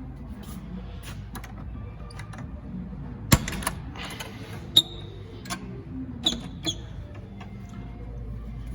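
A scatter of sharp clicks and knocks, the two loudest about three and a half and five seconds in, over faint background music.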